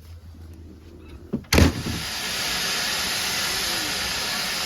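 Steam from a steam locomotive hissing loudly and steadily. It starts suddenly about a second and a half in, after a quiet low hum.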